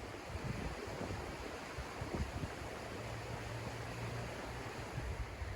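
Wind blowing outdoors and buffeting the microphone: a steady rushing noise with uneven low rumbles.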